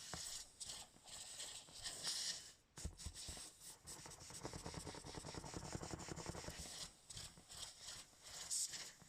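Handling noise on an inflated vinyl beach ball: scratchy rubbing and light knocks, with a rapid rubbing creak in the middle. There is no pop.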